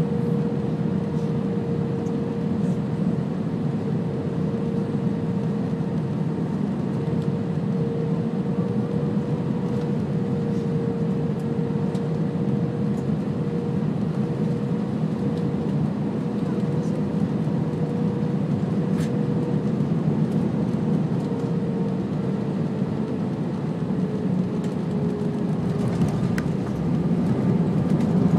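Airbus A320 cabin noise in flight: a steady rush of engine and air noise with a constant mid-pitched engine tone. The tone dips slightly near the end while the overall noise grows louder.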